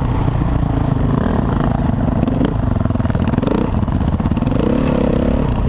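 Dirt bike engine running, its pitch rising and falling as the throttle is worked, over a dense steady low rumble.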